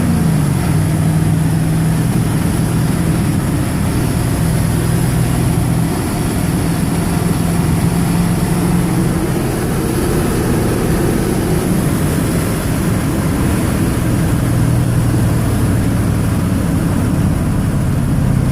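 1985 Ford truck's 6.9-litre diesel V8 running on the road. Its engine speed drops in the first second, then holds fairly steady with small rises and falls.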